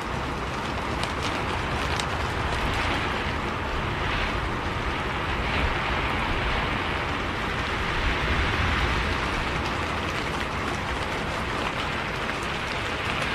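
Rain falling on a moving bus: a steady low rumble of engine and road under an even hiss of rain, with a few drops ticking on the body or windows.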